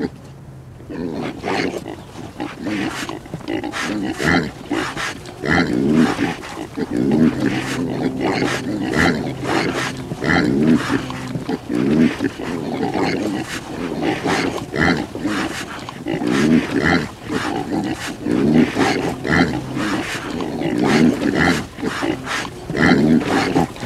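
A long string of short, rough, animal-like grunting sounds, about one a second, over a low steady drone in parts.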